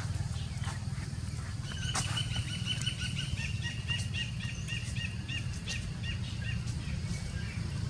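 A small animal chirping: a rapid run of short, high chirps lasting about five seconds, starting about two seconds in, over a steady low hum and a few scattered clicks.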